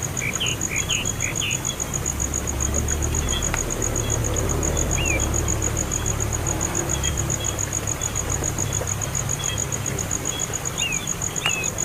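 Scattered short bird chirps, a few near the start and again near the end, over a steady, rapidly pulsing high-pitched trill and a constant low rumble.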